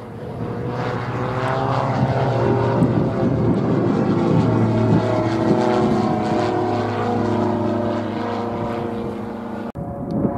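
Diamond DA42 Twin Star twin-engine propeller aircraft passing, its engines and propellers making a steady drone. The drone swells over the first two seconds and its pitch slowly sinks as it goes by. It cuts off suddenly near the end.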